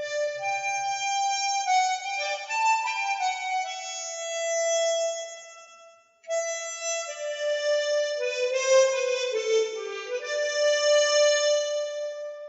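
Harmonica playing a slow melody in two phrases, with a short break about six seconds in before the second phrase begins.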